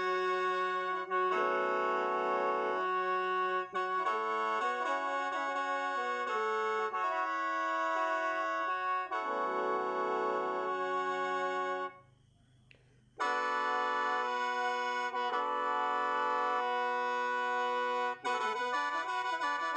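Lao khaen (bamboo free-reed mouth organ) played solo: a melody over held drone notes, with a pause of about a second some twelve seconds in before the playing resumes.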